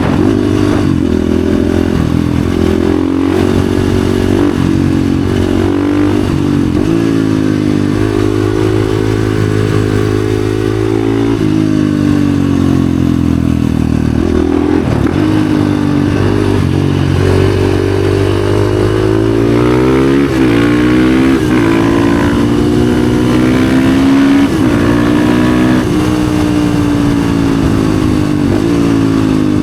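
Husqvarna FE 450's single-cylinder four-stroke engine through an FMF exhaust, ridden hard: the revs climb and fall again and again, with several sharp drops, as it accelerates and rolls off between curves.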